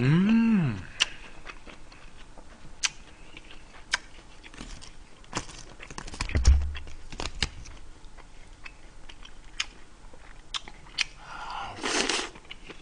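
Close-up eating sounds: chewing and crunching of food, with scattered sharp clicks of chopsticks. A short hum rises and falls in pitch at the start, and a low thump comes about halfway through.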